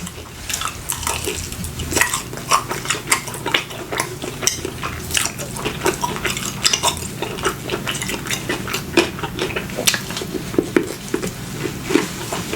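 A person eating chicken wings close to the microphone: a dense, irregular run of wet chewing clicks and smacks.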